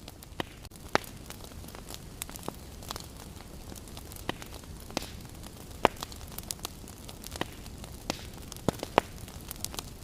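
Wood fire crackling in a fireplace: irregular sharp snaps and pops, a few louder ones about six and nine seconds in, over a steady low rush of noise.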